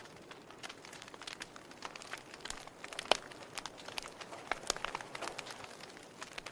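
Wood fire crackling in a fireplace, with irregular snaps and pops; the sharpest pop comes about three seconds in.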